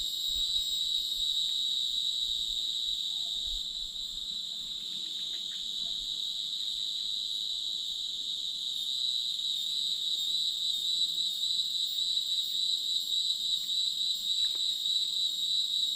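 Insects trilling in an unbroken, high-pitched chorus.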